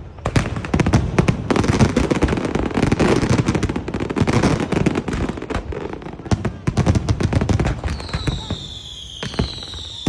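Fireworks going off in a dense, rapid crackle of bangs and pops. Near the end, a series of falling whistling tones starts, repeating about once a second over the bangs.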